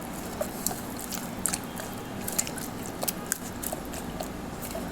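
Raw chicken pieces being mixed into a wet marinade of onion, chili and spice pastes, making irregular squelches and small clicks.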